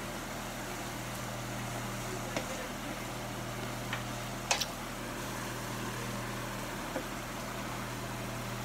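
Green beans frying in a stainless steel skillet, a steady sizzle over a low hum, with a few sharp clicks as a wooden spatula stirs and taps the pan.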